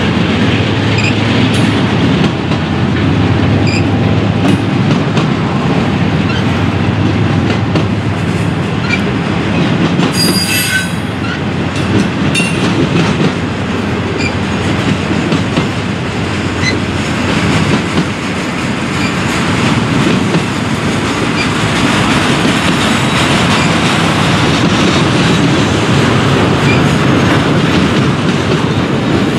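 Intermodal freight train's container well cars rolling steadily past: wheels running on the rails with constant rattling and clacking. A brief high metallic squeal sounds about ten seconds in.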